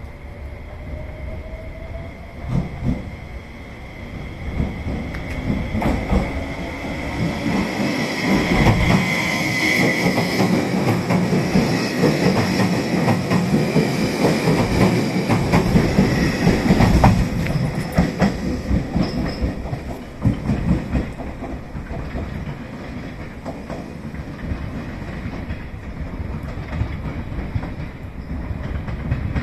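A train pulling out and passing close by, with sharp clacks over the rail joints. It grows louder for several seconds, is loudest through the middle, then fades as it draws away.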